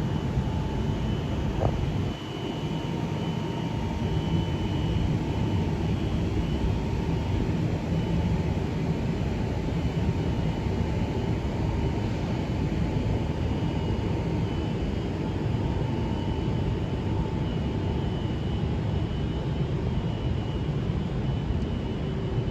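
A train standing at the platform with its equipment running: a steady low hum with two faint steady whines over it.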